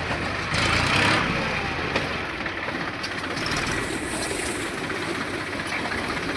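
Deutz-Fahr tractor's diesel engine running steadily, briefly louder about half a second in.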